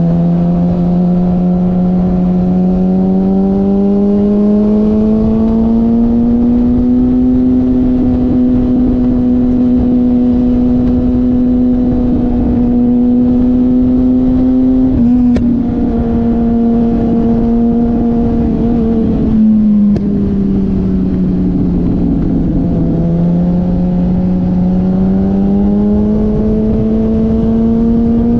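Motorcycle engine running hard at fairly steady revs, its pitch slowly climbing, easing off and climbing again, with two brief breaks in the note about 15 and 20 seconds in.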